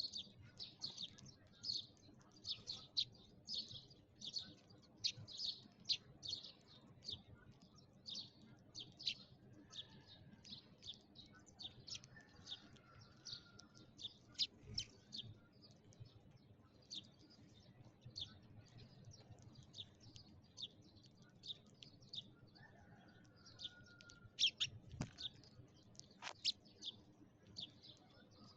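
Sparrows chirping: a steady stream of short, high chirps, several a second, with a sharp click near the end.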